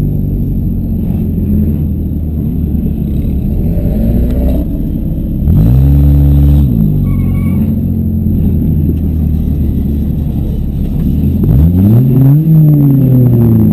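Demolition-derby car engines running loudly and revving. The pitch climbs and drops sharply about six seconds in, then again several times near the end, where more than one engine can be heard.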